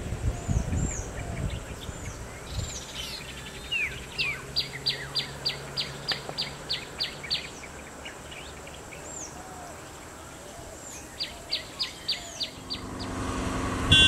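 Wild birds calling: a quick run of about a dozen sharp falling whistles, roughly four a second, in the middle, and a shorter run near the end, among scattered high chirps. A low rumble in the first second, and a vehicle's noise builds near the end.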